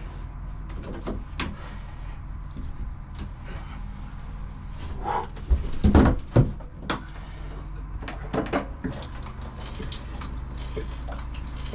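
A boat's marine diesel engine running with a steady low hum, with a cluster of knocks and clunks about halfway through as a full container is handled and emptied.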